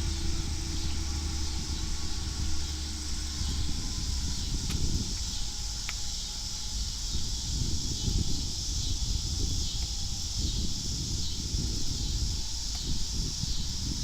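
Wind buffeting the microphone in an uneven low rumble, over a steady high-pitched drone of insects. A vehicle engine's hum fades away in the first few seconds.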